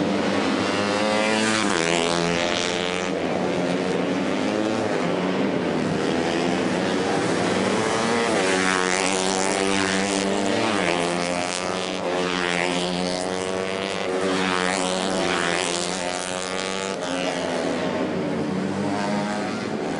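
Racing motorcycles at full throttle, several engines overlapping, their pitch climbing and dropping back again and again as the riders shift gears and pass.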